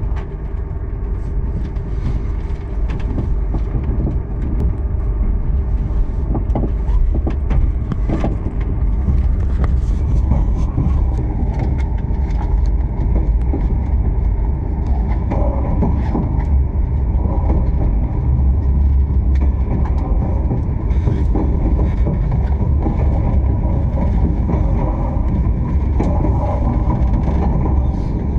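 Moving train heard from inside the carriage: a steady low rumble with many small clicks and rattles, growing louder over the first several seconds and then holding steady.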